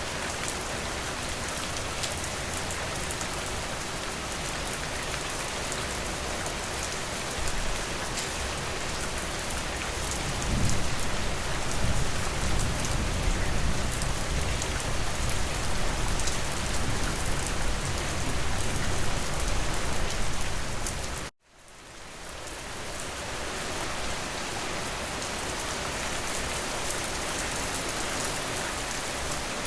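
Steady rain falling on a surface. A low rumble swells underneath for about ten seconds in the middle. About two-thirds of the way through, the sound cuts out abruptly and fades back in over a couple of seconds.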